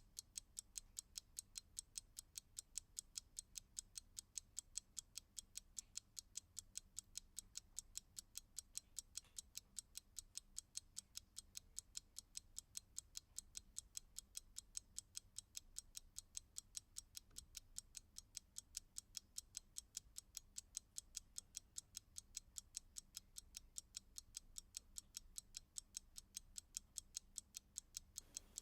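Clock ticking with quiet, crisp, evenly spaced ticks, several a second.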